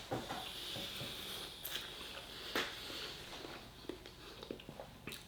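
Quiet sounds of someone eating chow mein with a fork: chewing, with faint scattered clicks of the fork against the food container, the plainest about halfway through.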